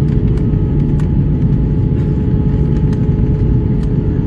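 Airliner cabin noise during the descent to landing: the steady rumble of engines and airflow, with a constant mid-pitched hum running through it.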